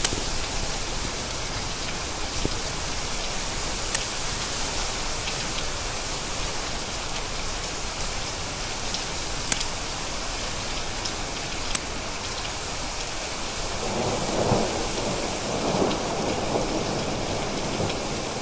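Steady rain falling, with a few sharp drop clicks. About fourteen seconds in, a low rumble of thunder swells up and rolls on to the end.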